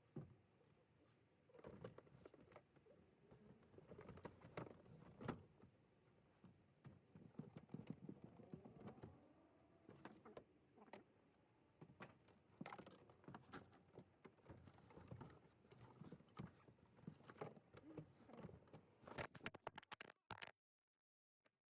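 Faint, irregular knocks, taps and rustles of household items being handled, packed and set down. It cuts off abruptly to silence near the end.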